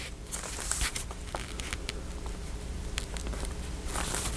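Paper ephemera being handled and shuffled: quiet rustling with a few scattered soft ticks over a low steady hum.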